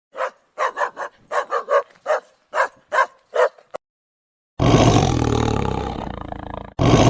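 A dog barking in a quick run of a dozen or so short barks, then, after a brief pause, a big cat giving a long, deep roar that fades, with a second roar starting just before the end.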